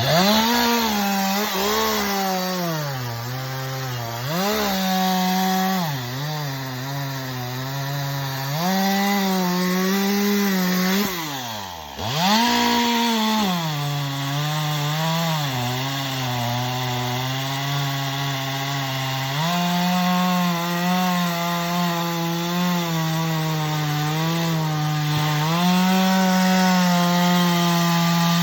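Chainsaw cutting wood, its engine pitch sagging as it loads up in the cut and rising again between cuts. About twelve seconds in the pitch falls away sharply, nearly to a stop, then the saw revs back up.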